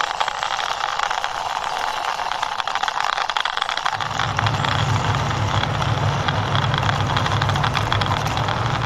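A plastic toy military truck pushed along by hand, its wheels giving a steady dense rattle of tiny clicks. About four seconds in, a low steady hum joins the rattle and continues.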